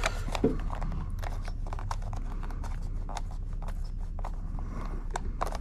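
A screwdriver working a small screw out of a steering wheel's housing: many short, irregular clicks and scrapes over a steady low hum.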